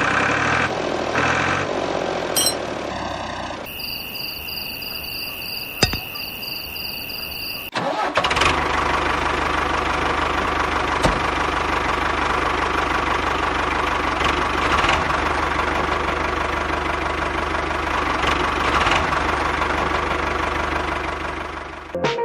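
An engine cuts in abruptly about eight seconds in and runs steadily at an even speed. Before that there is a shorter stretch of mixed mechanical sound and steady high tones.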